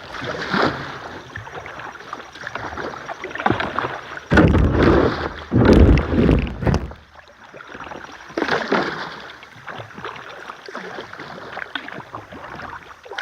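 Kayak paddle strokes splashing and dripping in river water, irregular. Between about four and seven seconds in, two loud stretches of deep rumbling noise, like wind or handling on the microphone, cover the water sounds.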